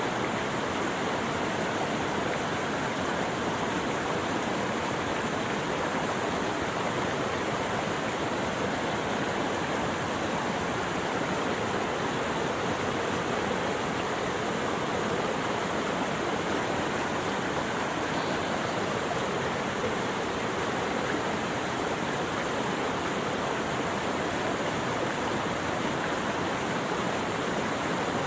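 Flowing water rushing steadily, an even hiss that never changes and has no breaks.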